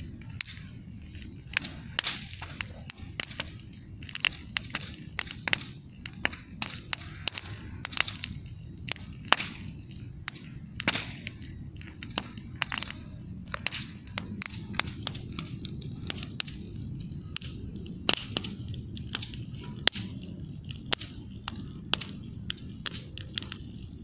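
Campfire burning: wood crackling with irregular sharp pops, often several a second, over a low steady rush of the flames.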